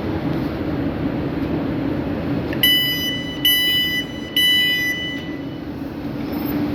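A train running at the station with a steady rumble and low hum, with three loud electronic warning beeps about halfway through.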